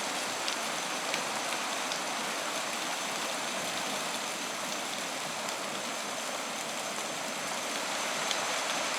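Steady rushing water with a few faint ticks.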